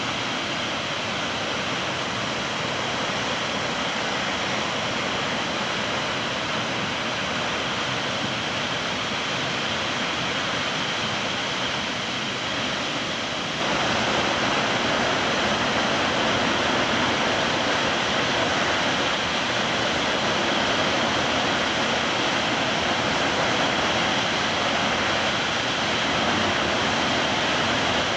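Steady rush of heavily flowing water from a dam's outflow after a typhoon, with the reservoir high. It turns abruptly louder and brighter about halfway through.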